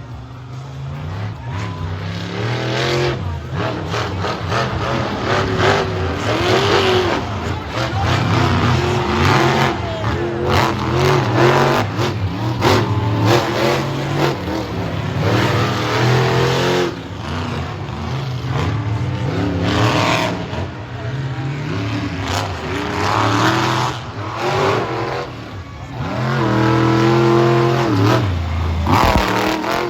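Monster truck engine revving hard over and over, its pitch climbing and falling as the throttle is worked on and off, with a long loud rev near the end.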